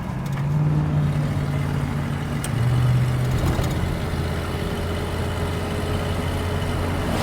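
Square-body 2500 pickup truck's engine running on the road, its note dropping a step about three seconds in and then holding steady.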